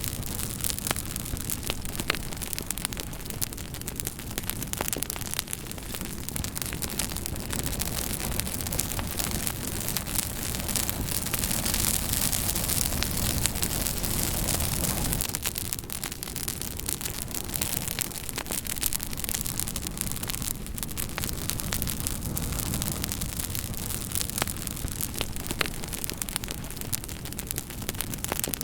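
Campfire crackling: a steady hiss and low rumble of burning wood, dotted with many sharp pops and snaps. It grows louder around the middle, then drops back suddenly a little past halfway.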